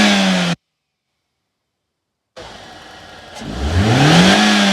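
Toyota Corolla XLi engine being revved: a held high rev that cuts off abruptly about half a second in, nearly two seconds of silence, then the engine revving up again and holding at high revs.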